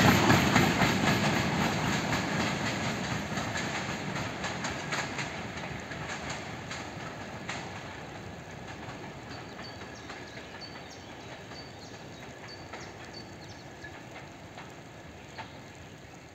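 Passenger coaches of a steam-hauled museum train rolling away over the track, wheels clicking over the rail joints. The rumble fades steadily as the train recedes.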